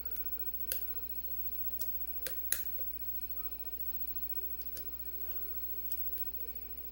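Lock picking in a Master Lock ProSeries 6327 padlock: scattered sharp metallic clicks of a swoop pick working the pins against the tensioned core. Four clicks come in the first three seconds, the loudest about two and a half seconds in, then a few fainter ones.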